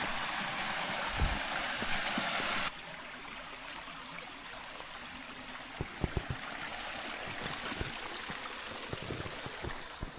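Mountain stream flowing, an even rushing of water. About two and a half seconds in it drops abruptly to a softer, steady rush, with a few short low knocks later on.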